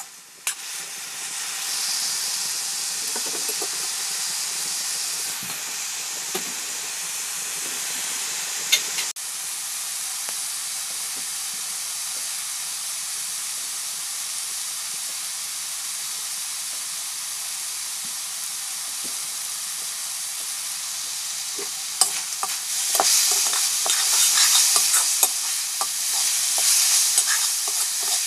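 Mushrooms frying in a wok with a steady sizzling hiss. After about twenty seconds, a metal spatula starts scraping and clicking against the wok as the mushrooms are stirred, and the sizzle grows louder.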